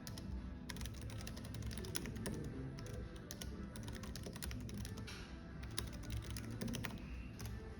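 Computer keyboard typing: fast, irregular key clicks that start about a second in and pause briefly around the middle, over soft background music.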